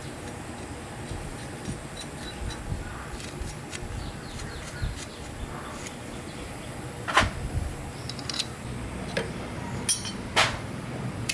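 A few sharp knocks and clinks of hand tools or metal engine parts being handled, the loudest about seven seconds in and two more near the end, over a low steady rumble.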